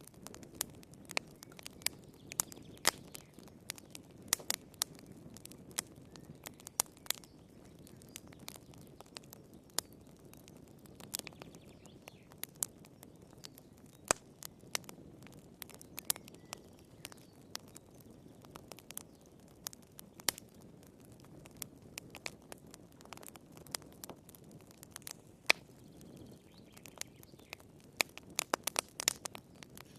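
Wood fire crackling in a fireplace: irregular sharp pops and snaps over a low, steady rumble of the flames, with a quick flurry of pops near the end.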